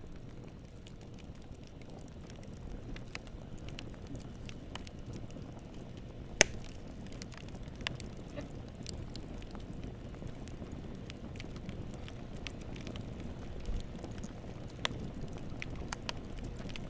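Fire crackling in a fireplace: scattered sharp pops and snaps over a steady low hiss, with one loud pop about six seconds in.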